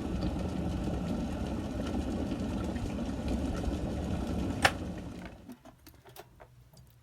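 COSORI 1.5 L stainless steel electric kettle at a rolling boil, a steady rumble; near the end its automatic shut-off switch clicks once and the boiling dies away over about a second, leaving a few faint ticks.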